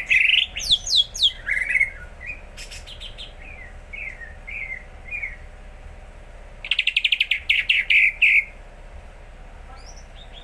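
Green leafbird (cucak ijo) singing: quick sliding whistled notes at first, then scattered short chirps, and a loud rapid trill about seven seconds in. It is a bird coming into regular song.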